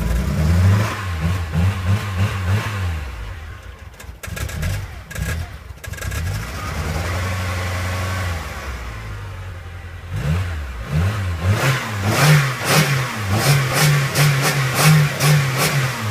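Car engine running and being revved again and again, its pitch rising and falling in short bursts at the start and again over the last few seconds, with a steadier stretch between. The engine had been struggling because its spark plugs were flooded.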